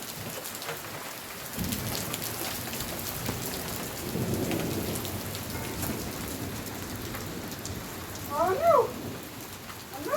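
Steady rain pattering on surfaces with scattered drop ticks, and low rumbles of thunder about two seconds in and again around the middle. A short rising-and-falling animal call sounds near the end.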